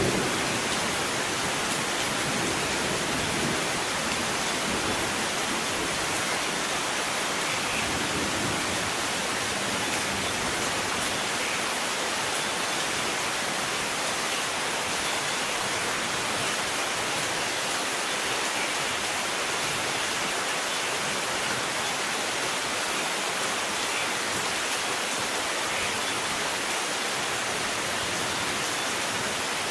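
Steady, even downpour of rain, with a low rumble of thunder dying away over the first few seconds.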